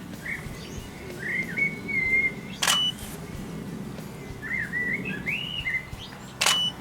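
A garden songbird sings two warbling phrases. Between and after them a camera shutter fires twice, each click followed by a short high beep.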